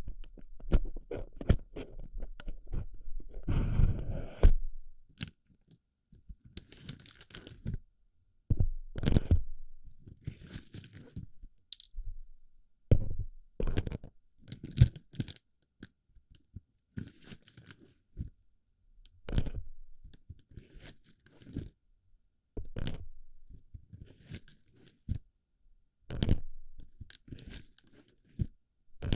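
Plastic BB pellets pressed and rubbed into the ear of a binaural microphone: irregular sharp clicks and short crunchy rustles with brief pauses between them.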